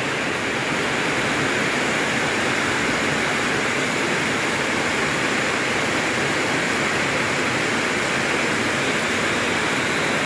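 Heavy rain pouring down: a steady, even hiss of a downpour.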